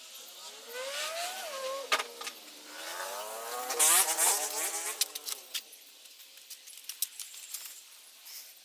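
Kawasaki Z1000 inline-four motorcycle engine running and being revved, its pitch rising and falling twice, with a few sharp clicks; the revving falls away about five and a half seconds in.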